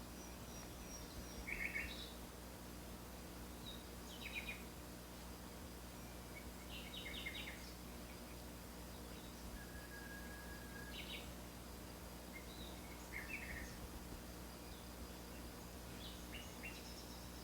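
Birds chirping now and then: short, high calls every few seconds, with one brief drawn-out whistled note about ten seconds in, faint over a steady low hum.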